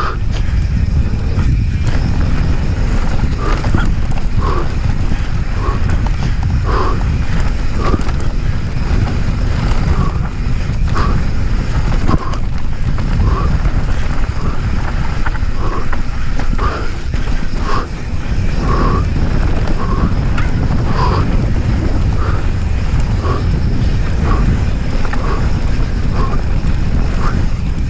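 Wind buffeting an onboard camera's microphone and the rumble of a mountain bike rolling fast over a dirt trail. Short mid-pitched sounds recur about once a second throughout.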